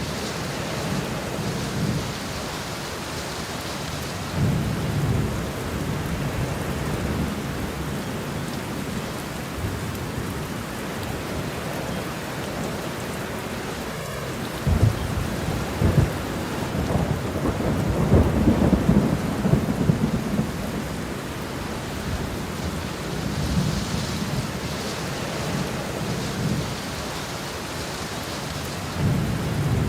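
Steady rain falling, with thunder rumbling low underneath. The thunder swells about halfway through, with a couple of sharp cracks and then a longer rolling rumble, before settling back to the rain.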